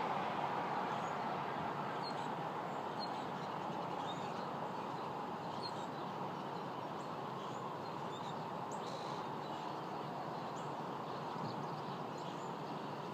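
Scattered short, high chirps from small wild birds over a steady rushing background noise that eases a little in the first few seconds.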